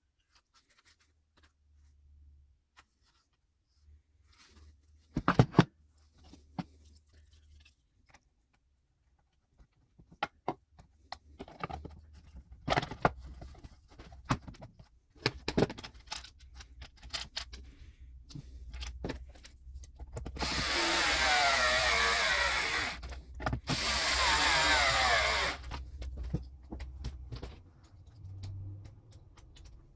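GRUNDER 18V cordless chainsaw (GY2191) running in two bursts of a few seconds each, its electric motor and chain a dense whirring with a wavering pitch. Before the bursts come a series of clicks and knocks.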